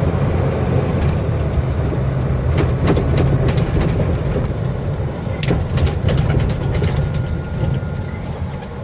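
A 10-ton pickup truck on the move, heard from the cab: a steady low engine and road drone, with scattered clicks and rattles through the middle.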